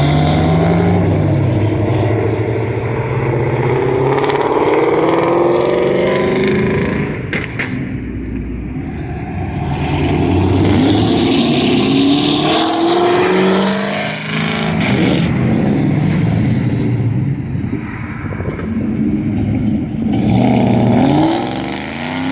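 Performance car engines revving hard again and again, the pitch climbing and dropping with each blip, with a few sharp cracks near the middle.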